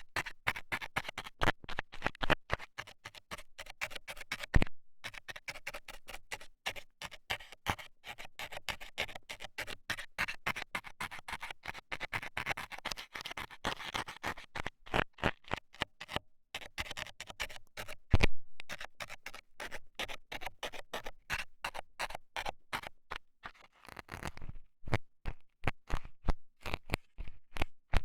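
A metal ear scaler scraping and poking rapidly inside a microphone's ear, giving dense scratching and clicking strokes. Twice there is a louder knock.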